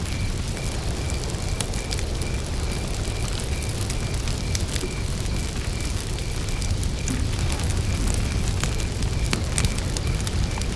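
Campfire burning with scattered crackles and pops over a steady low rumble. A cricket chirps in an even high-pitched pulse, clearest in the first few seconds.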